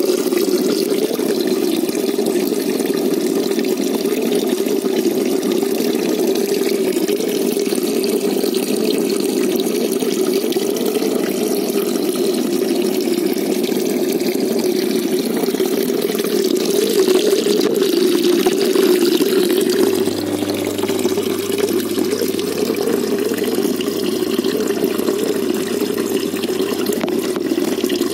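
Steady rush of running water in a shallow koi pond, even and unbroken, its sound mostly low and full rather than splashy.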